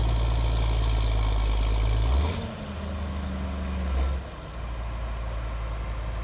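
Tractor engine running with a steady low note that shifts about two seconds in and again about four seconds in, as the tractor bogs down in a soft field.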